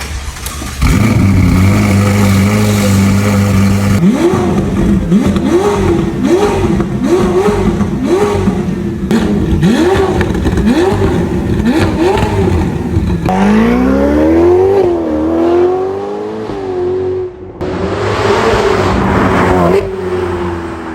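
Ferrari F8 Tributo's twin-turbo V8 through a Novitec Inconel valved exhaust. It fires up about a second in and runs at a steady high idle, then gives a series of sharp throttle blips about one a second. After that come longer revs that climb and fall before it settles back toward idle.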